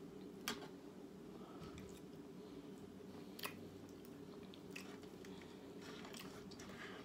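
Faint close-up chewing of steak, with a few short sharp clicks, the loudest about half a second in, over a steady low background hum.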